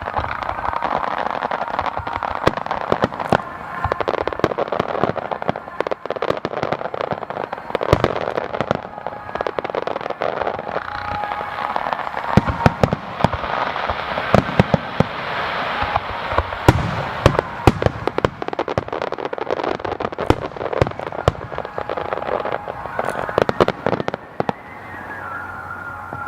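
Aerial fireworks bursting and crackling in a dense, continuous barrage, with many sharp reports in rapid, irregular succession.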